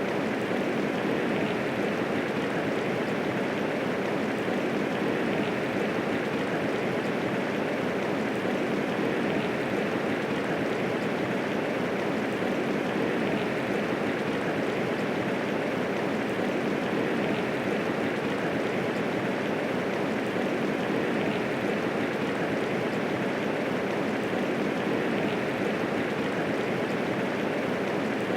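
Steady medium rainfall, a constant even hiss of many raindrops with no thunder.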